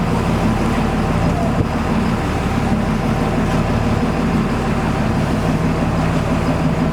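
Boat engine running steadily, with rushing wind and water noise.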